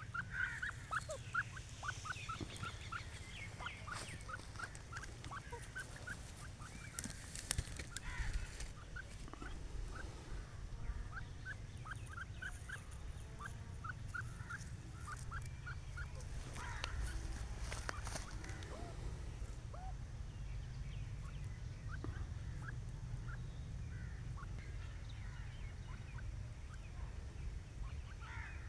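Grey francolin calling: a long run of short, quick chirping notes, about two a second, that fade out about two-thirds of the way through, over a steady low rumble.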